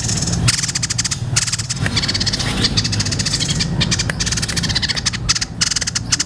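Tepus dada putih (white-breasted babbler) singing a long run of fast, rattling, chattering trills, high-pitched, over a steady low hum.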